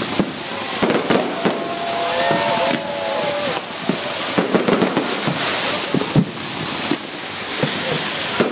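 Fireworks going off: a rapid, irregular string of bangs over a continuous crackling hiss.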